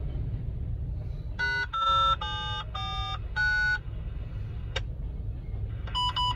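Low, steady rumble of a freight train's hopper cars rolling over a grade crossing, heard from inside a car. Over it, a short run of five electronic tones stepping up and down in pitch plays from about a second and a half in, and three quick electronic beeps follow near the end.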